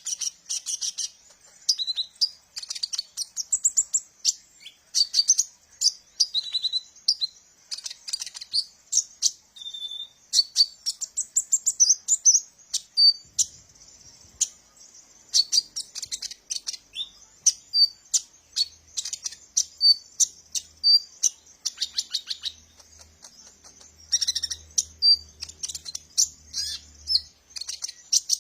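Kolibri ninja (purple-throated sunbird) singing: a fast run of high-pitched chirps, twitters and short trills, broken by brief pauses.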